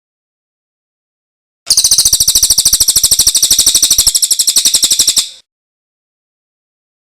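Recorded songbird trill: one loud, fast run of evenly repeated high notes, about ten a second. It starts a little under two seconds in and stops about three and a half seconds later, with dead silence on either side.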